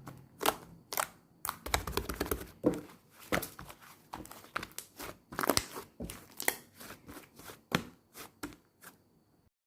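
Soft, squishy slime being pressed, stretched and folded by hand, giving irregular crackling, crinkling pops and squishes. The sounds stop just before the end.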